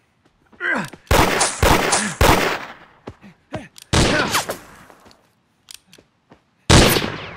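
Revolver gunshots in a gunfight. A rapid string of shots begins about a second in, with further shots near four seconds and near seven seconds, each ringing out after the crack.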